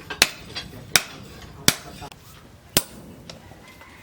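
A blacksmith's hammer striking metal on an anvil: four sharp blows about a second apart, each with a short ring, with lighter taps in between.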